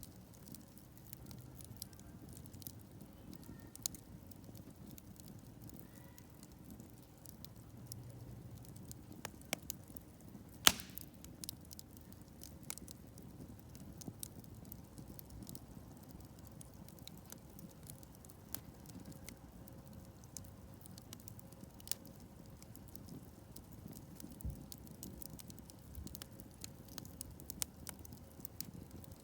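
Wood campfire crackling: many small, irregular pops and snaps, with one much louder snap about eleven seconds in, over a low steady rumble.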